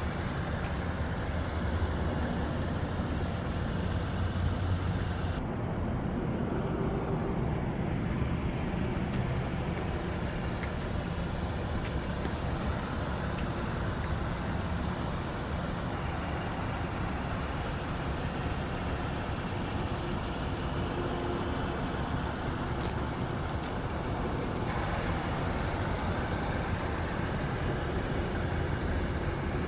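2018 Audi A5 2.0T's turbocharged four-cylinder engine idling steadily through its exhaust.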